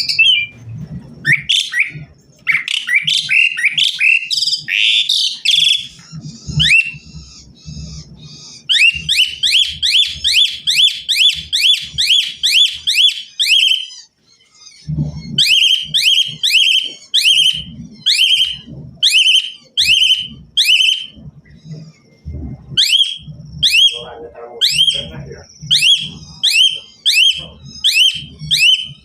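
Black-collared starling (jalak suren) singing loudly. It opens with a varied jumble of whistles and chatter, then runs a fast series of repeated downward-sweeping whistled notes, about four a second. After a short break it repeats them more slowly, about two a second, with low thumps under many of the notes.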